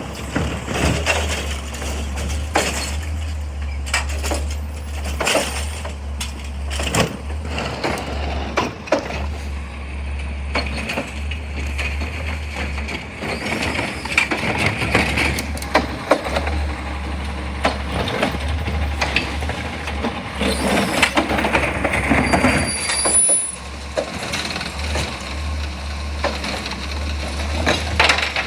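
Garbage truck's diesel engine running with a steady low hum while refuse is crushed and compacted, with many sharp cracks, snaps and clatters.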